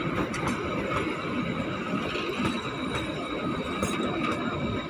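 Coaches of the Kalka–Shimla narrow-gauge toy train rolling past, their wheels rumbling and clattering on the rails.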